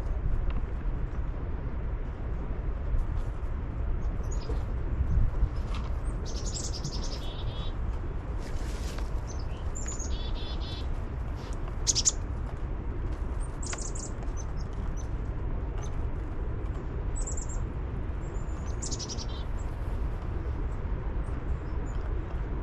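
Small birds chirping, with short calls scattered throughout and a few rapid trills, over a steady low rumble.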